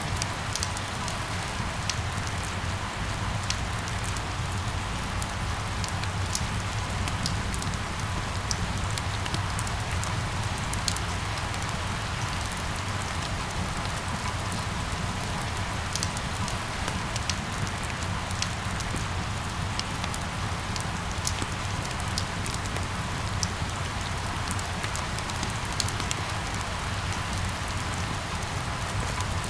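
Steady rain falling, an even hiss with many individual drops ticking sharply on hard surfaces, over a low steady rumble.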